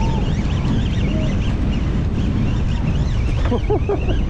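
Strong wind buffeting the microphone on an open boat deck, a steady heavy rumble. Over it come many short wavering high calls, with a few honking calls near the end.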